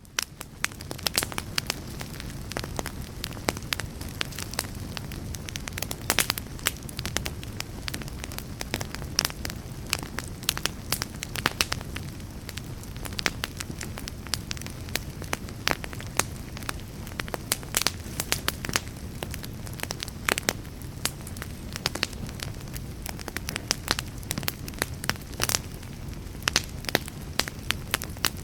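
Wood fire in a fireplace crackling, with frequent sharp pops and snaps over a steady low rumble. The sound rises in over the first second.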